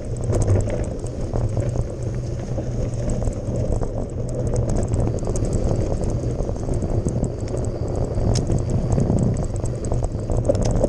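Mountain bike riding over a gravel forest road: steady tyre noise and low rumble, with many scattered sharp clicks and rattles from stones and the bike.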